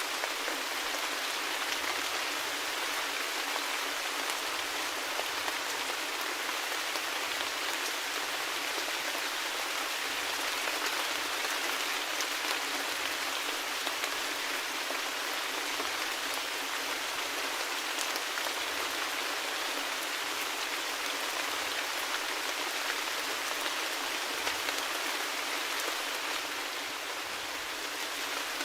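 Steady rain falling: an even hiss with scattered sharp ticks of individual drops and no low rumble.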